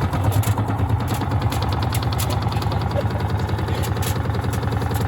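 Gorenje washing machine running with bricks in its drum: a steady low hum with rapid, regular knocking.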